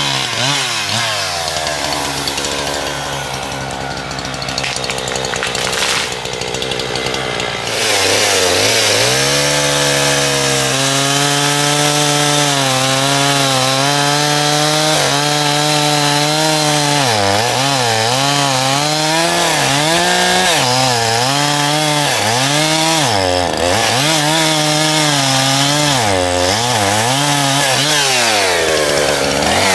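Chainsaw engine running low and uneven for the first several seconds, then opened up to a high steady pitch about eight seconds in. In the second half its pitch repeatedly sags and recovers, as the engine does when the chain is loaded in a cut.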